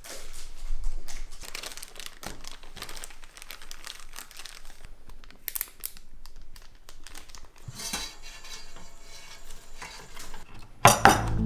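Irregular crinkling and light clinks of dishes. Music starts loudly just before the end.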